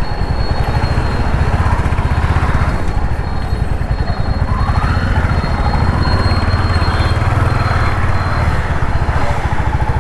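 Royal Enfield Hunter 350's 349 cc single-cylinder engine running, a steady exhaust note made of closely spaced firing pulses.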